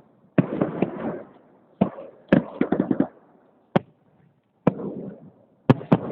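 Fireworks salute shells bursting: a series of sharp bangs with short decays, some single and some in quick crackling clusters, with brief quiet gaps between.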